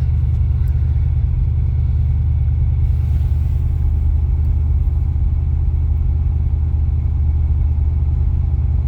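LS V8 engine in a Porsche 951 idling steadily on its raised cold-start idle while it warms up.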